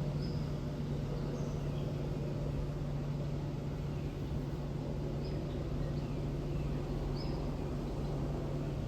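Airbus Helicopters AS355 Ecureuil 2 twin-turbine helicopter flying over, a steady low drone with an even hum. Birds chirp faintly a few times above it.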